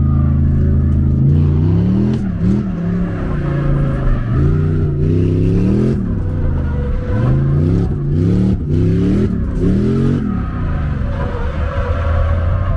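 Drift car's engine revving hard, its pitch climbing and falling back again and again as it is driven through a drift run.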